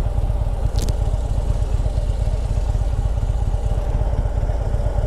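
Harley-Davidson V-twin motorcycle engine idling with a steady, fast-pulsing rumble, with one short sharp tick just under a second in.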